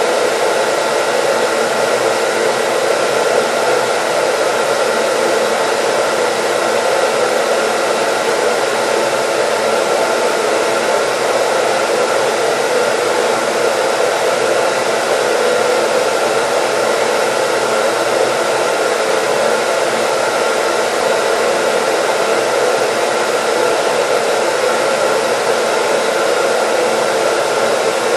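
Hair dryer running steadily: an even, unbroken rush of air with a faint motor whine, used as white noise.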